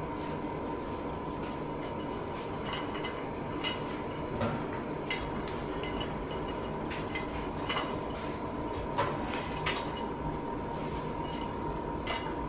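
Forge running with a steady roar and a steady whine, while a blade heats inside it; scattered light metallic clicks and knocks.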